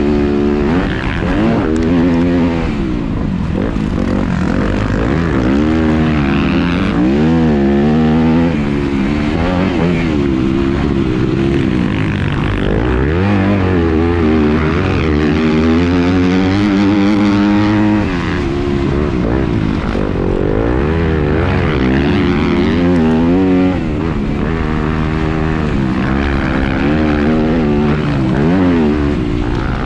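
2019 Yamaha 250F motocross bike's single-cylinder four-stroke engine running hard under the rider, its revs rising and dropping over and over as it accelerates through the gears and backs off.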